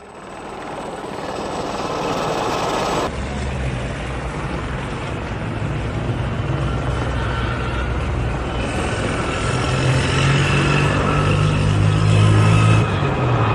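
Military helicopter's rotor and engine noise, steady and loud, growing louder toward the end, with abrupt changes about three seconds in and near the end.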